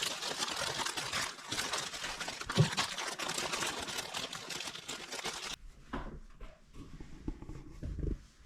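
Plastic snack packaging being handled, a dense crinkling rustle that cuts off abruptly about five and a half seconds in, followed by a few soft low thumps.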